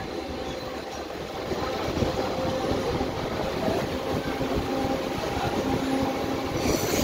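Mumbai suburban local trains (electric multiple units) running at speed, a steady rumble with the wheels clattering over the rail joints. A high hiss comes in near the end.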